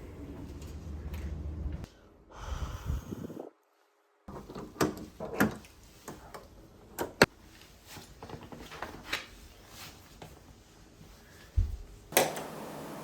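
A low rumble that cuts off, then a run of sharp clicks and knocks from a door and its lock being worked, ending in a loud bang of the door shutting near the end, after which a steady room hiss.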